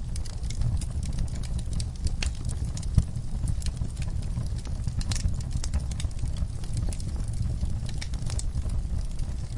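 Wood fire crackling in a fireplace: irregular sharp pops and snaps over a steady low rumble of the burning fire, with one louder pop about three seconds in.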